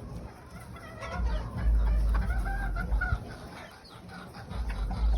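Farm fowl clucking and calling, a run of short pitched calls in the middle, over a low rumbling noise.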